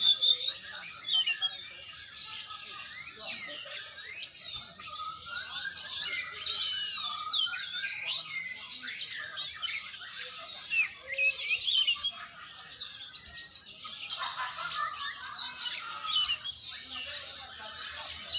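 Oriental magpie-robin (kacer) singing a continuous, varied song of quick whistled glides, chirps and trills, with no pauses.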